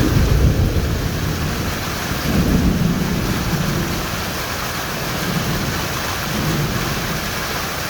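Heavy summer rain pouring down steadily, with thunder rumbling low underneath, swelling right at the start and again a couple of seconds in before fading.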